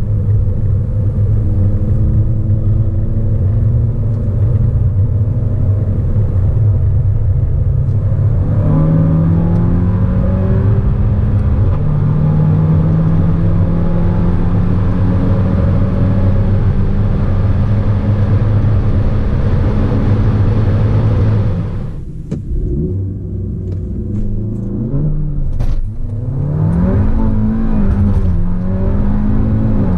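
Audi A3's stage 2 tuned EA888 gen3 turbocharged four-cylinder pulling hard under acceleration. It changes up through the gears about nine and twelve seconds in, then makes a long pull with the pitch slowly climbing. A little after twenty seconds the throttle closes and the engine note drops away, then the revs rise and fall a few times.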